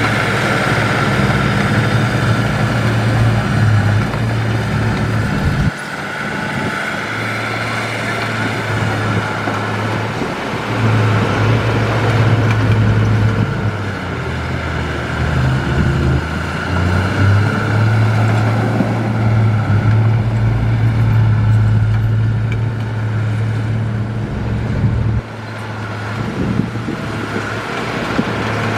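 Heavy earthmoving diesel engine running with a steady low drone that rises and falls with load. The drone drops away suddenly about six seconds in and falls lower again near the end.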